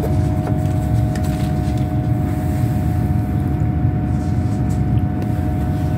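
Diesel train's engine and running noise heard from inside the carriage: a steady low rumble with a constant hum over it.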